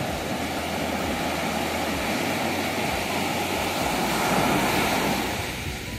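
Steady rushing of ocean surf on a beach, swelling a little after four seconds.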